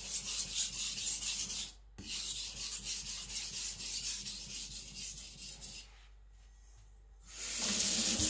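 Steel knife blade (an Aogami gyuto) scraping back and forth on a wet whetstone in quick, even strokes. The blade is held one to two degrees above the shinogi line to thin the blade face. The stroking pauses briefly about two seconds in, stops near six seconds, and a shorter scrape comes near the end.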